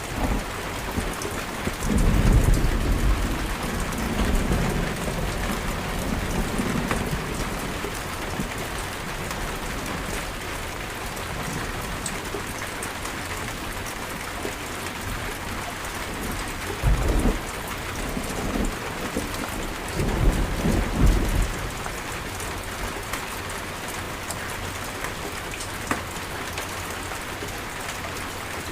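Steady rain in a thunderstorm, with rolls of thunder: a long low rumble starting about two seconds in and fading over several seconds, then two shorter rumbles, one past the middle and one about two-thirds of the way through.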